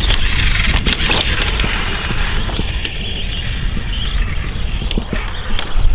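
A 1/4-scale RC dirt bike's electric brushless motor whining as it runs over dirt, with scattered clicks and scrapes from the tyres on gravel. Heavy low wind rumble is on the microphone throughout.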